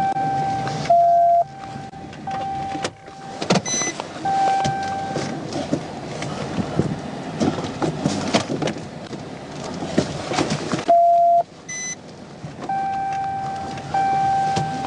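A steady electronic tone sounding on and off, twice dropping briefly to a slightly lower pitch, with two short higher beeps, over rustling and scattered knocks.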